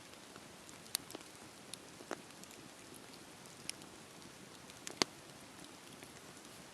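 Wood fire crackling: a soft steady hiss broken by a few sharp pops, the loudest about five seconds in.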